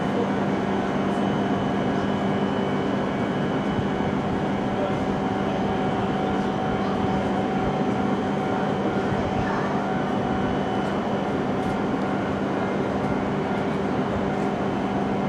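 Steady hum of a Hokuriku Shinkansen train, E7/W7 series, standing at the platform, with several even tones that hold their pitch throughout.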